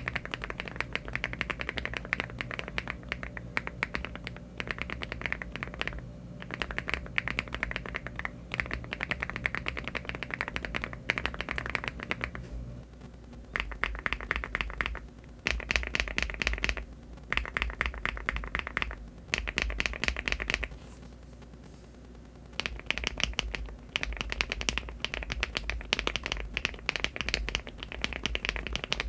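Rapid typing on a LEOBOG Hi75 aluminium mechanical keyboard with Cherry-profile keycaps, first on HMX Pink Salt switches, then about 13 seconds in on HMX Garnet switches. After the changeover the typing comes in runs with short pauses between them.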